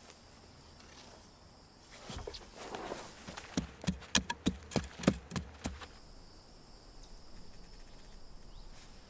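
A quick run of about ten sharp knocks, roughly three a second, over a few seconds, then a faint steady insect hum.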